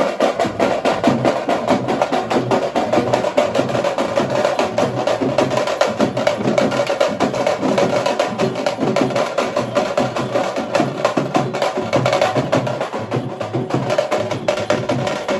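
Teenmaar drumming on dappu frame drums: a fast, loud, unbroken beat of many rapid stick strikes.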